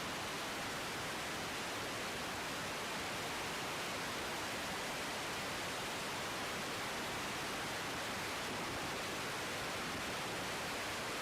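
Steady, even hiss of radio static in a gap between air traffic control transmissions.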